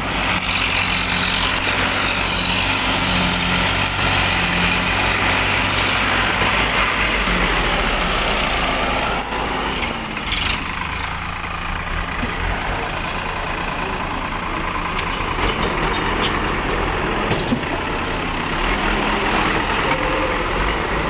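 Heavy diesel machinery engine running steadily, dipping briefly in level about halfway through.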